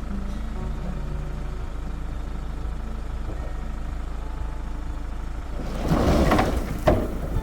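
Heavy diesel engine of the log-hauling machine running steadily. About six seconds in, a short loud rush of clattering noise comes, then a single sharp knock.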